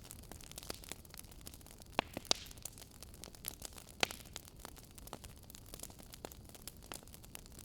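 Wood fire crackling in a fireplace: a steady scatter of small crackles, with a few sharper pops about two and four seconds in.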